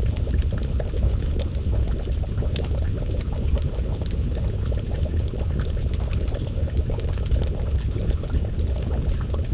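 Wood fire crackling, scattered sharp pops over a steady low rumble, mixed with the bubbling of a stew pot simmering over the flames.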